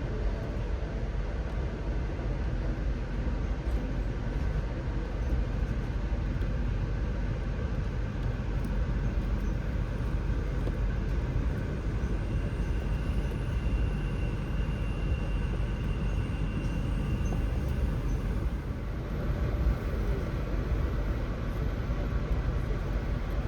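A moving Amtrak passenger train heard from inside the car: a steady low rumble and rolling noise. About halfway through, a faint high whine holds for several seconds.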